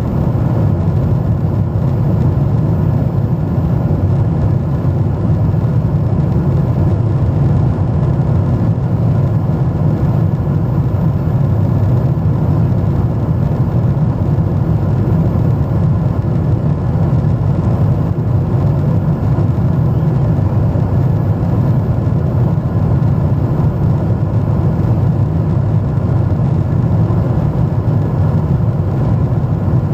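Steady jet engine and airflow noise heard inside an airliner cabin in flight: a deep, even rumble that does not change.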